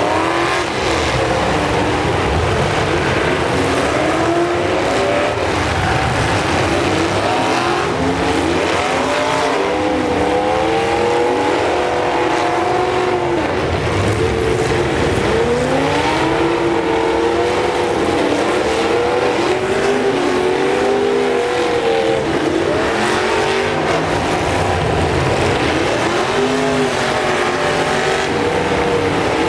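Several demolition derby cars' engines revving hard at once, their pitches rising and falling and overlapping, over a steady, dense engine and exhaust noise.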